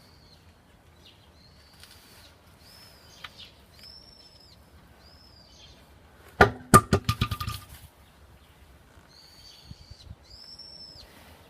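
Short, arched bird chirps repeating about once a second, with a burst of rapid, ringing clatter about six and a half seconds in that lasts just over a second.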